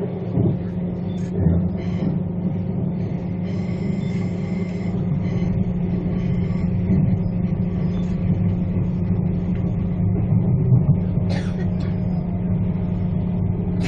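Inside a passenger train running along the track: a steady low rumble of the carriage that grows a little louder after about five seconds, with a faint high whine a few seconds in.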